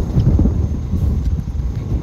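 Scania G370 tipper truck's diesel engine running, a low steady rumble.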